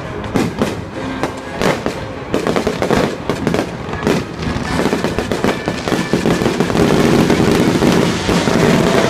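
Fireworks bursting and crackling in quick succession, with music playing underneath; the bursts are densest in the first few seconds, then the overall sound grows louder and fuller.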